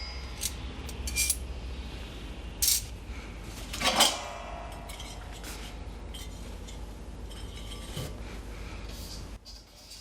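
Metal parts of a secondary-combustion fire pit stove clinking and clanking as they are handled and taken apart for folding: a handful of separate sharp knocks, the loudest about four seconds in.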